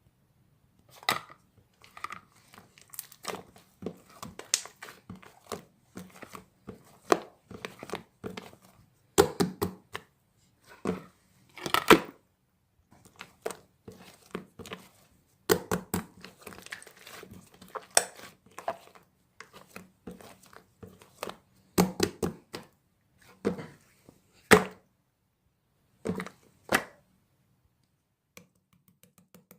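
Slime being squeezed and kneaded by hand: irregular crackling and crinkly clicks, with louder snaps now and then.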